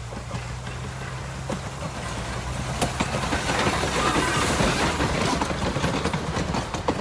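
Narrow-gauge steam train approaching, its sound growing steadily louder, with wheels clicking over the rail joints from about halfway through.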